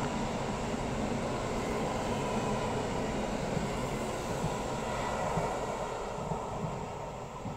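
A train running past steadily, a dense rumble with a faint steady whine above it, growing quieter near the end.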